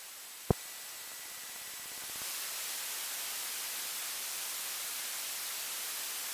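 Steady radio static hiss in the aircraft's radio/intercom audio, with a single click about half a second in; the hiss gets louder at about two seconds and holds.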